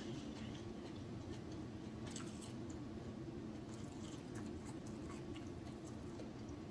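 Close-miked chewing with scattered soft mouth clicks and smacks, a small cluster about two seconds in, over a steady low hum.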